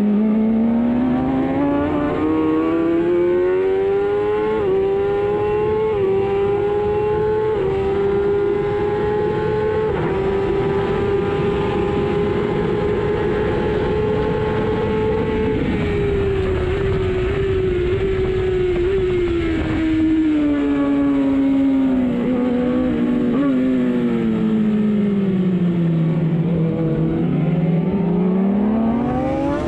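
Racing superbike engine heard onboard at full throttle. It climbs through several upshifts, holds high revs for a few seconds, then drops in pitch through downshifts under braking, and picks up again near the end.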